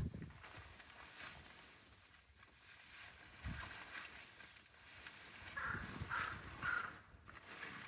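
An animal calling three times in quick succession near the end, over faint outdoor handling knocks.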